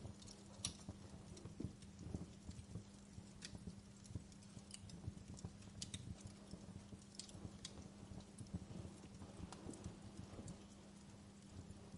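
Wood fire crackling, with irregular sharp pops and snaps over a soft low hum.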